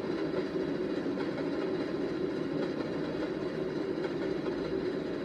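Passenger train hauled by Southern Railway steam locomotive 4501 rolling past, a steady, even noise of wheels running on the rails.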